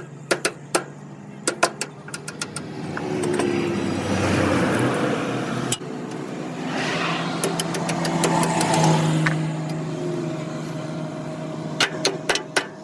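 Motor vehicle engine running close by, swelling louder twice in the middle. Quick hammer blows on metal come at the start and again near the end.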